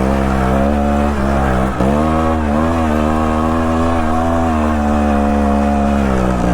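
GasGas TXT 280 Pro trials bike's single-cylinder two-stroke engine running under varying throttle, its pitch rising and falling. The revs drop sharply just under two seconds in, then pick back up and hold fairly steady.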